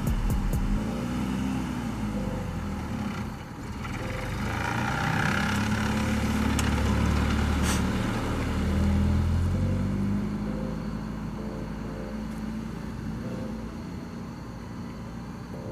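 Nissan 350Z's V6 engine revving up and down as a learner pulls away and drives slowly in a manual, louder in the middle as the car comes closer, then fading away.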